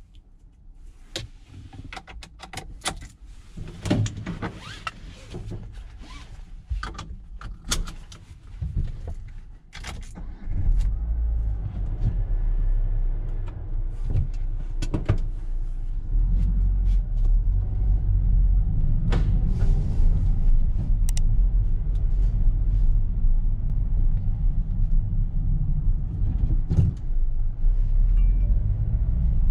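Scattered clicks and knocks of a car's cabin and controls being handled, then, about ten seconds in, the 2021 Renault Express's 1.3-litre turbo petrol four-cylinder starts and runs with a steady low rumble, heard from inside the cabin.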